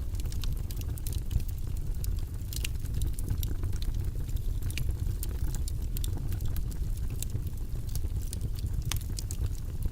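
Steady, deep rushing white-noise track with scattered light clicks and ticks over it.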